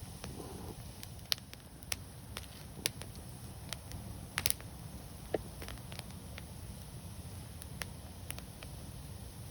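Wood fire crackling: scattered sharp pops and snaps over a steady low rumble, the loudest a quick double pop about halfway through.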